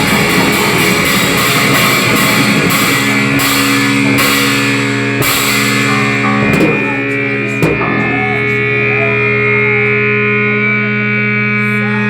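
Rock music with distorted guitar and drums. About five seconds in, the drumming stops and a held guitar chord rings on steadily, with a couple of sharp clicks.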